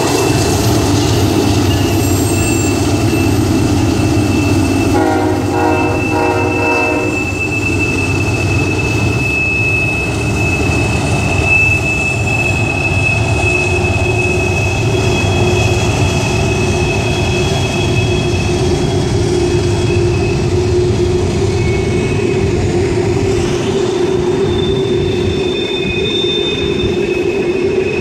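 Norfolk Southern diesel freight locomotives rumbling past, then empty coal hopper cars rolling by, with a steady high-pitched squeal of wheels on the curve. A horn sounds briefly about five seconds in.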